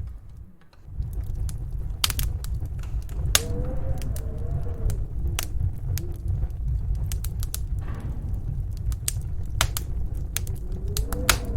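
Wood fire crackling in a fireplace, with scattered sharp pops, over the low steady rumble of a snowstorm wind. A wavering wind whistle rises and falls twice.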